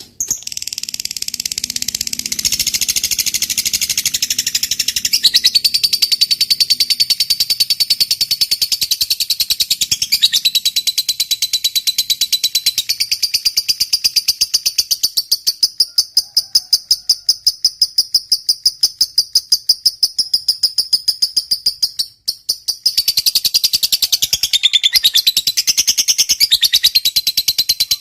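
Lovebird singing a long 'ngekek': a rapid, continuous high-pitched chattering trill that breaks off briefly about 22 seconds in, then starts again.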